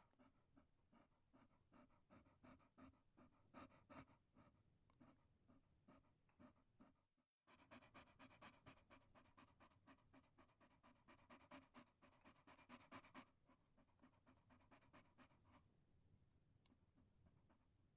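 A chihuahua panting quietly in fast, even breaths, several a second. The panting stops abruptly for a moment about seven seconds in, picks up again, and dies away about fifteen seconds in.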